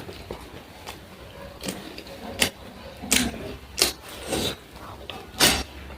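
Close-miked eating sounds: chewing with irregular wet mouth clicks and smacks, about one every half second to a second.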